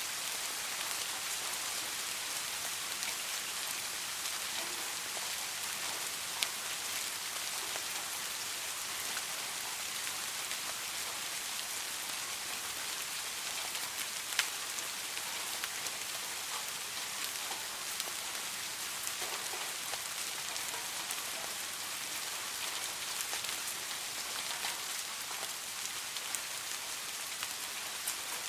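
Soft rain falling steadily, an even hiss of drops on a surface, with a couple of single louder drop ticks.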